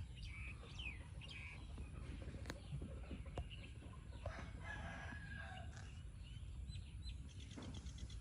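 Chickens calling: a scattered series of short, high calls, several of them falling in pitch, with a quick run of short calls near the end.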